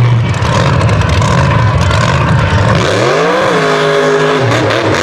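Mega truck engine running loud, then revving up about three seconds in, easing back to a held note and revving again near the end.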